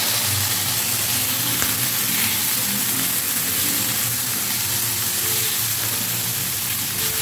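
Small boneless chicken pieces frying in hot oil in a nonstick pan, sizzling steadily as a spatula stirs them.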